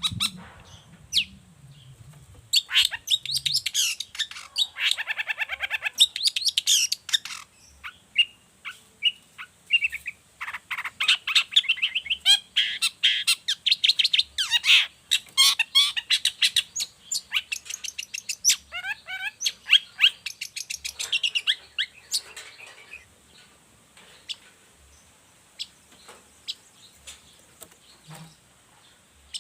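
Long-tailed shrike singing a fast, varied chattering song in dense runs of high notes, which thin out to a few scattered single chips over the last several seconds.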